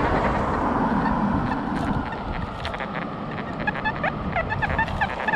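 XP Deus metal detector with an X35 coil giving a run of short, broken, warbling tones as the coil sweeps over trashy ground. These are the junky tones of iron and foil targets. They start about a second and a half in, over a steady background rush.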